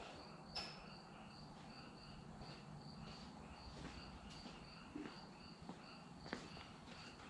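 Faint cricket chirping: a steady, regular chirp about three times a second, with a few faint clicks.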